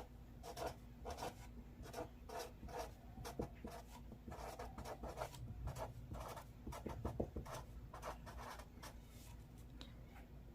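Someone writing by hand: a run of faint, quick scratchy strokes at an irregular pace.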